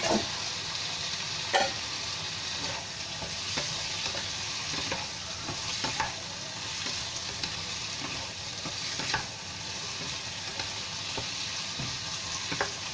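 Pork ribs and bitter gourd sizzling in a wok while a spatula stirs them, with a steady frying hiss and a few knocks and scrapes of the spatula against the pan.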